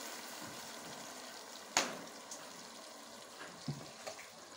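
Wet paste sizzling in hot oil in a steel pot as it is stirred with a wooden spoon; the sizzle slowly dies down. A sharp knock comes about two seconds in, and a fainter one near the end.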